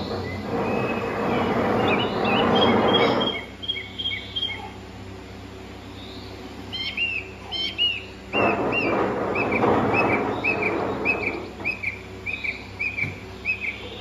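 A bird calling with a long series of short chirps, two or three a second, over a loud rushing noise that stops about three seconds in and comes back about eight seconds in.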